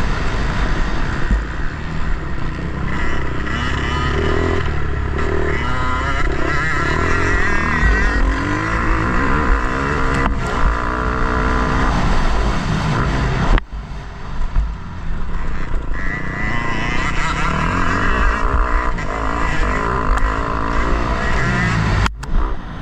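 Motocross bike engine revving hard and falling back over and over as the rider works the throttle through the race. Twice, about 13.5 and 22 seconds in, the engine note cuts off suddenly for a moment and then picks up again. Wind and rumbling from the ride run under it, picked up by the onboard camera.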